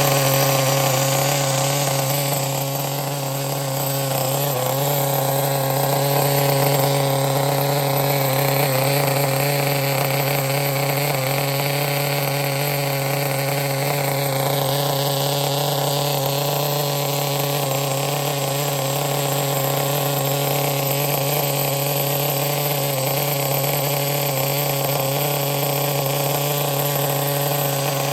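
Small glow-fuel nitro engine of a Cen GST 7.7 RC truck idling steadily on the bench during its break-in, on 25% nitro fuel.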